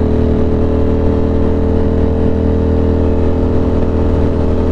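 Ducati Monster 620's air-cooled L-twin engine running at a steady cruise, its pitch holding level.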